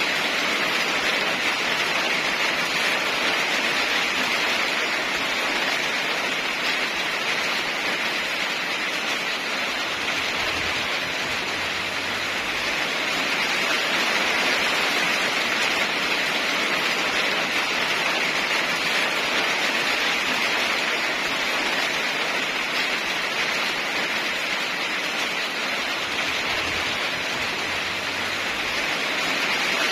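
Steady heavy rain, an even hiss that swells and eases gently.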